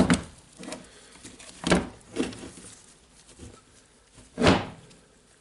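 A few sharp clicks and knocks of small parts being handled as carbon brushes are fitted into an angle grinder, the loudest a little after four seconds in.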